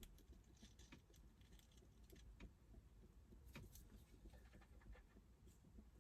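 Near silence with faint, irregular light ticks and patters, typical of light rain falling on a car's roof and windows heard from inside the cabin.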